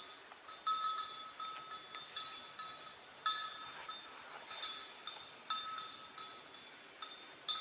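A single small metal bell clanking irregularly, sometimes two or three strikes close together, each ring dying away within a fraction of a second at the same pitch. This is typical of a bell worn by a grazing animal as it moves.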